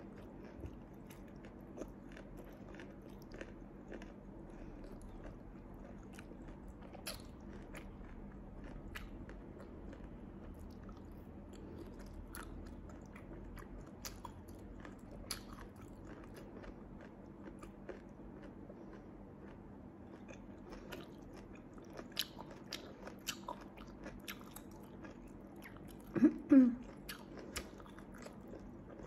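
Close-miked eating sounds: chewing spicy sea snail meat, with many small wet clicks and mouth smacks. Near the end comes a short, louder sound with a wavering pitch.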